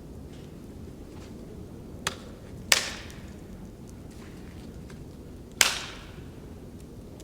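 Three sharp impacts over a low steady background noise: a lighter one about two seconds in, then two loud ones about three seconds apart.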